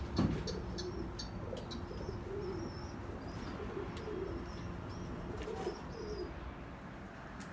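Domestic pigeons cooing repeatedly, with thin high chirps over them in the first few seconds.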